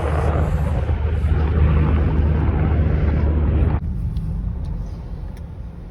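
Steady low rumble of departing water-dropping helicopters, mixed with noisy buffeting. The sound drops off suddenly about four seconds in, and a quieter low hum continues.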